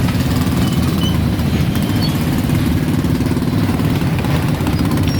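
An engine idling steadily: an even low rumble with a fast regular pulse, plus a few faint short high chirps.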